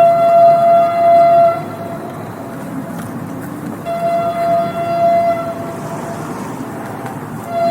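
Train horn sounding long steady blasts, one right at the start and another about four seconds in, with a third beginning near the end, over the continuous rumble of the train running.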